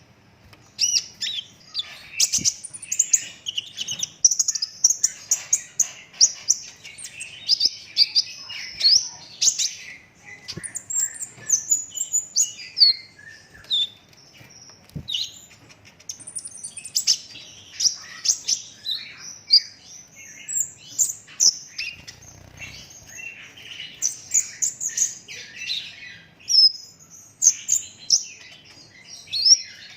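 Purple-throated sunbird (kolibri ninja) singing a fast, dense run of high chirps and trills, broken by a couple of brief pauses.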